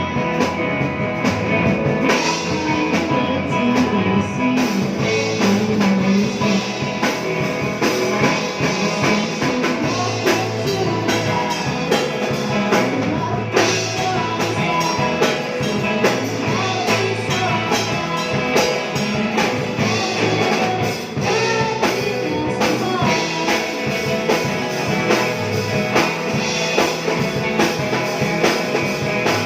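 Rock band playing a song, with drum kit, guitar and singing.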